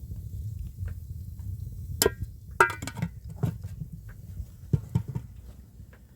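A series of sharp knocks and clinks, some ringing briefly, clustered about two to three seconds in with a few more near five seconds, over a steady low rumble.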